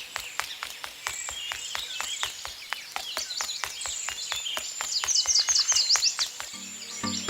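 Birds chirping and twittering over a steady rapid ticking of about four to five clicks a second. Music comes in near the end.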